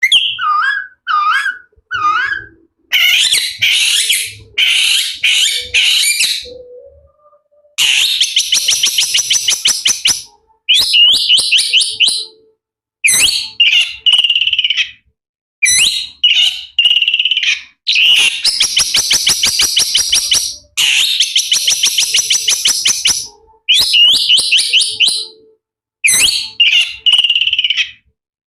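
Shrike singing a mimicry song, stringing together imitations of other birds' calls and a hen's egg-laying cackle. Loud, shrill phrases come one after another, broken by long, fast rattling chatters about a third of the way in and again past halfway.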